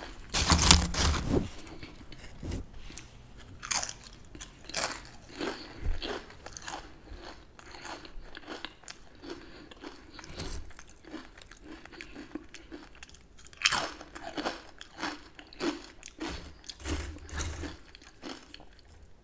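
Close-miked crunching of chips being bitten and chewed: a loud crisp bite about half a second in, then steady chewing crackles, with another loud crunch about two-thirds of the way through.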